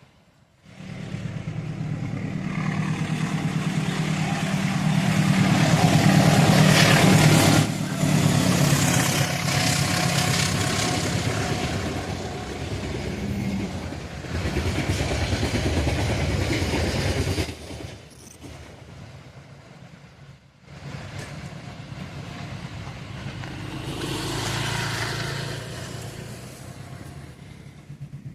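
Vehicles passing close by: a steady low engine hum under broad road or rail noise, cut sharply into several sections, with a loud stretch at the start and a quieter one after about eighteen seconds in.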